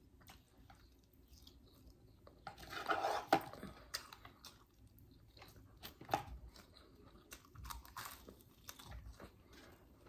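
Close-miked chewing and wet mouth sounds of someone eating, with short smacks and clicks and a louder burst about three seconds in.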